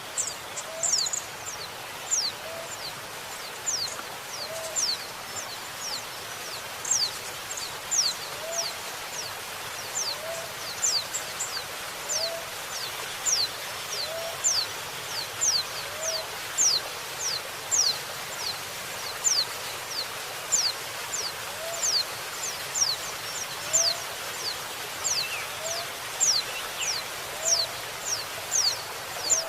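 Female white-eye (pleci) calling: quick, high, thin notes falling in pitch, about two a second, over steady running water. A lower, short note repeats about once a second underneath.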